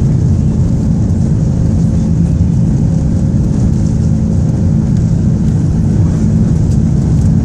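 Jet airliner heard from inside the passenger cabin during takeoff: a loud, steady low rumble of engines and rushing air.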